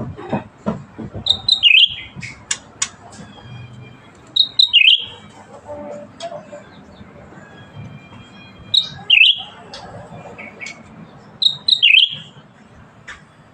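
A cucak ranting bulbul singing in loud short phrases. Each phrase is a few high notes ending in a note that drops lower, repeated four times about every three seconds, with short sharp chips between.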